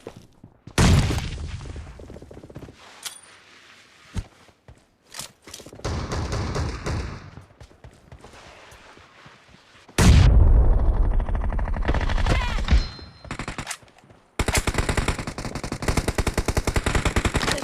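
Video game gunfire: scattered shots, then a loud, deep blast about ten seconds in, and a sustained stretch of rapid automatic fire near the end.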